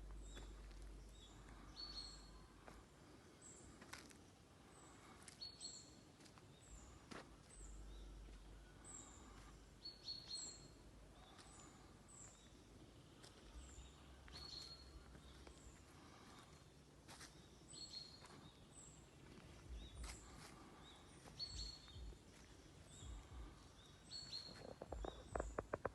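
Faint birdsong: short, high, falling chirps repeated every second or so, with a few low rumbles and clicks beneath.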